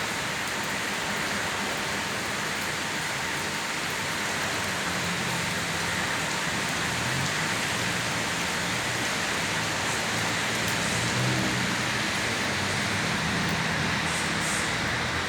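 Steady rain falling and splashing on hard surfaces, an even hiss throughout. A low hum swells and fades in the middle.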